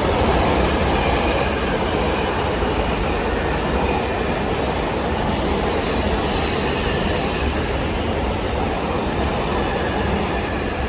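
Train rolling along the track with a steady rumble of wheels on rail, and a faint high whine over it.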